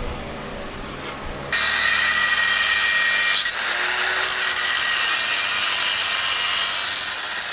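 A power cutting tool cutting into the layered sheet metal of a car's rusty door post, starting about a second and a half in. It makes a loud, steady high-pitched whine, with a brief dip about halfway through.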